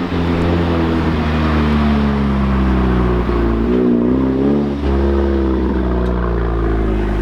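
Audi car engine running loudly close by, its pitch sagging slowly, with a short rev about four seconds in.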